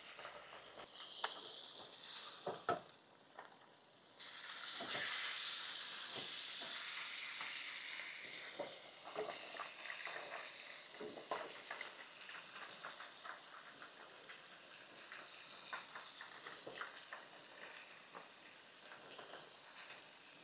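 Trout cakes frying in shallow vegetable oil, with bacon in a second pan: a steady sizzle with crackling pops that swells suddenly about four seconds in. A spatula clicks and scrapes against the pan now and then as the cakes are turned.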